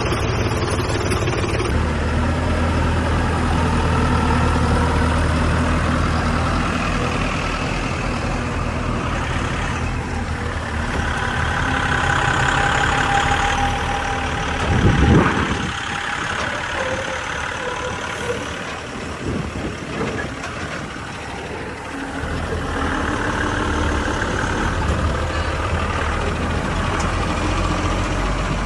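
Heavy diesel engine running steadily, its pitch and load shifting through the middle. A brief loud noise comes about halfway through.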